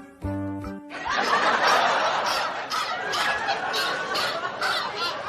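A held musical note for about the first second, then laughter over music with a steady beat.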